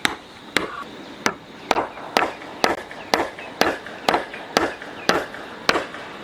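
Chopping: about a dozen sharp, evenly paced strokes, roughly two a second.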